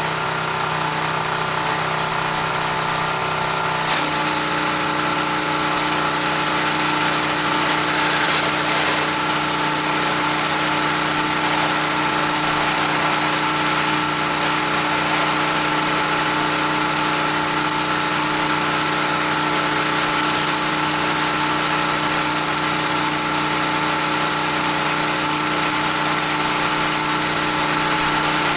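Gas-engine pressure washer running steadily under a constant hiss of high-pressure water spray as a house wall is rinsed. About four seconds in there is a short click and the engine's tone shifts.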